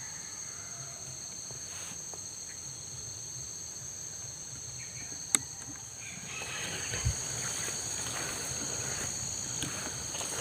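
Steady high-pitched insect drone in the brush. There is one sharp click a little past halfway, and scattered rustling toward the end.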